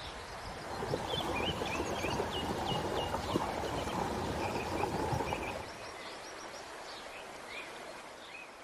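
Small birds chirping, with a louder scratchy noise from about half a second in until past the five-second mark.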